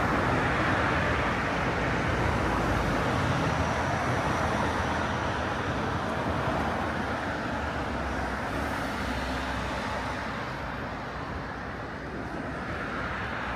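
Busy city street ambience: a steady din of road traffic and street bustle, easing slightly near the end.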